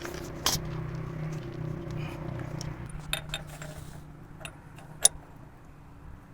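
Sharp metallic clinks and taps, the loudest about five seconds in, over a steady low hum that slowly fades.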